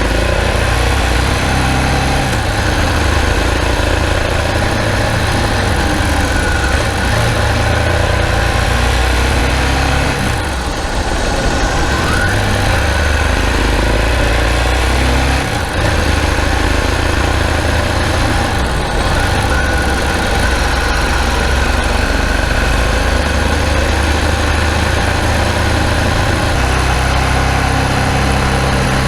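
Ducati Multistrada 1000DS air-cooled L-twin engine running steadily at idle through its exhaust, refitted with new gaskets to cure a sound problem. The low note dips briefly twice, about a third and halfway through.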